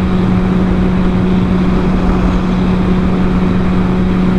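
Sport motorcycle engine running at a steady cruising speed, one even tone throughout, under a rush of wind noise on the helmet microphone.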